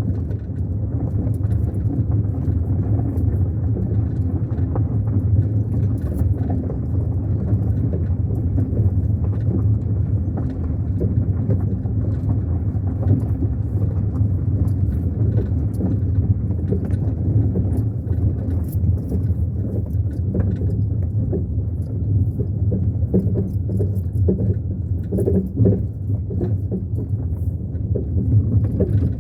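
Car on the move: steady engine and road rumble with scattered light rattles and ticks.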